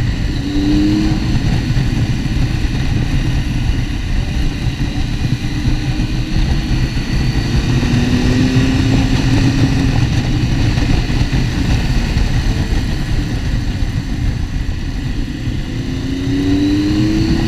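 Motorcycle underway, its engine note rising slowly a few times as it pulls, under a heavy steady rumble of wind and road noise.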